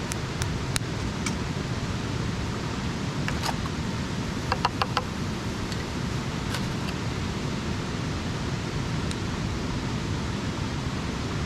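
Wood campfire burning with a steady low rush and scattered sharp crackles and pops, a quick run of several pops about halfway through.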